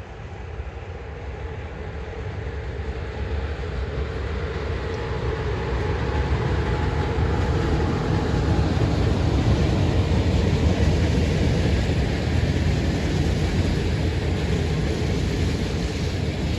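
Train approaching and passing along the track, its rumble growing steadily louder for about eight seconds and then running on at full strength as it goes by.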